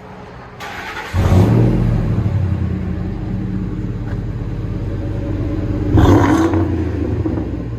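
Ford 5.4L Triton V8 with true dual exhaust through Flowmaster Outlaw mufflers starting up about a second in, then idling steadily. A short rev blip about six seconds in before it drops back to idle.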